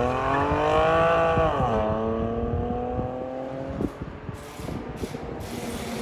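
Chevy Camaro 3.6L V6 with Flowmaster Super 10 race mufflers: the exhaust note climbs with the revs, drops sharply about one and a half seconds in, then runs steady at a lower pitch and fades.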